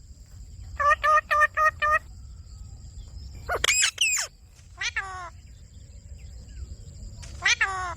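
Pet ringneck parakeets calling: a quick run of about six short, evenly spaced squawks, then louder calls that bend up and down in pitch in the middle and once more near the end.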